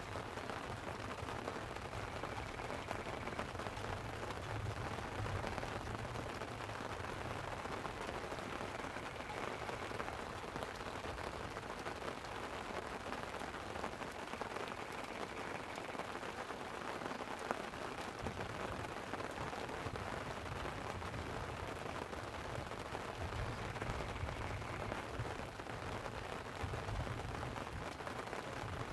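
Light rain pattering steadily on a tent, with small crackles and clicks through it. Low rolling rumbles of distant thunder swell twice, a few seconds in and again near the end.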